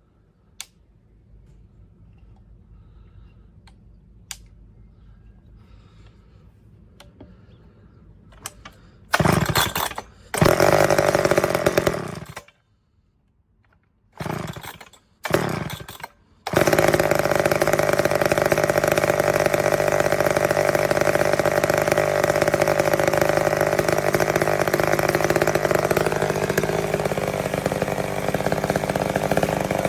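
McCulloch Mac 10-10 two-stroke chainsaw being started on its first try: after some light clicks it fires and dies in short bursts about nine seconds in and again around fourteen to sixteen seconds, then catches and keeps running steadily, its speed wavering slightly near the end.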